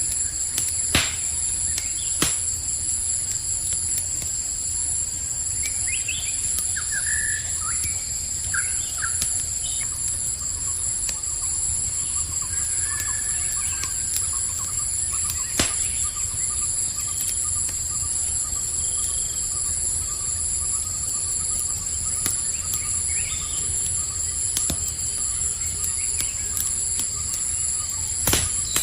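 Campfire crackling, with a few sharp pops over a low steady rumble, under a steady high chorus of crickets. A few short chirping calls come between about six and nine seconds in.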